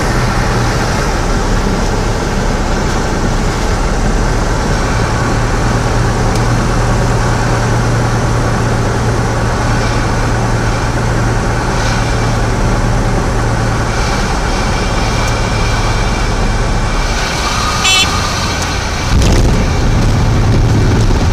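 Cessna 172F's Continental O-300 six-cylinder engine and the airflow making a steady drone on the landing approach. Near the end a brief horn-like beep, typical of the stall warning horn in the flare, is followed by a louder low rumble as the wheels touch down.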